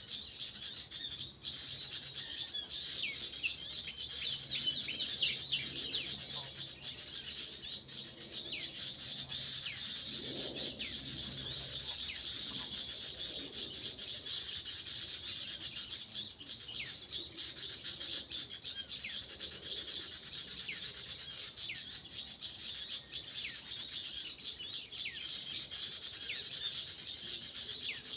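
Small birds calling with quick chirps that slide downward in pitch, with a rapid, louder cluster of them about four seconds in, over a steady high buzz.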